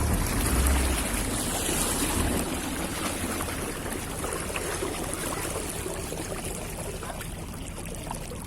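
Water rushing and splashing along a speedboat's hull. The low rumble of its 40 hp engine fades in the first second or two, and the sound dies down steadily as the boat slows.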